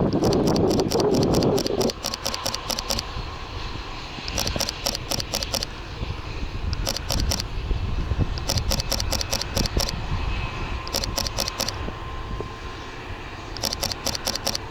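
Fujifilm X-T3 shutter firing in rapid bursts, about six bursts of quick even clicks, over low wind rumble on the microphone that drops away about two seconds in.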